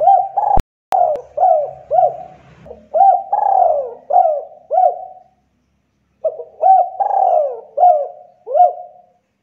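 Spotted dove (tekukur) cooing: two runs of repeated coo notes with a pause of about a second between them. A sharp click comes about half a second in.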